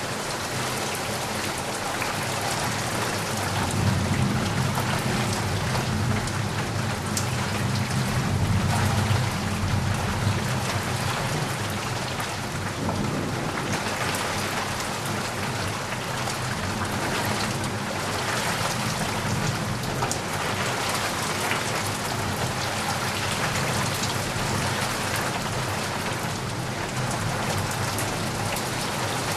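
Steady rain falling, an even dense patter and hiss. A low roll of thunder rumbles under it in the first half, swelling twice before fading away.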